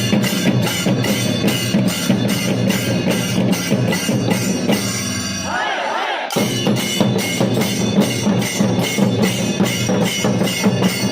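A drum ensemble playing a fast, steady beat of about four strokes a second, with a brief wavering high tone about six seconds in.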